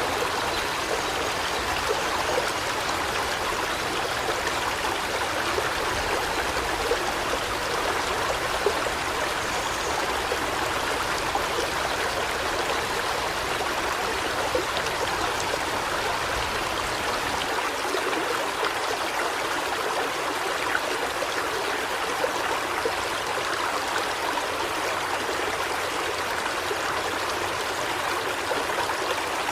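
River water flowing in a steady, even rush. The low rumble beneath it drops away a little past halfway through.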